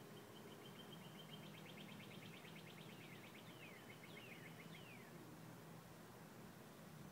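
A small songbird singing faintly: a rapid run of evenly repeated high notes, then about three quick falling notes, ending about five seconds in.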